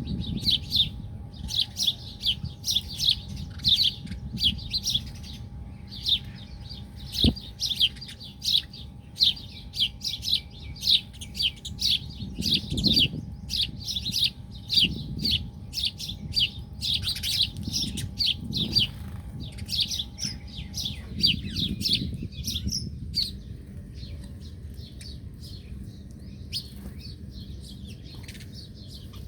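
Many small birds chirping in rapid, overlapping short calls that thin out to a few scattered chirps about three-quarters of the way through. A faint steady hum runs underneath and stops about two-thirds in.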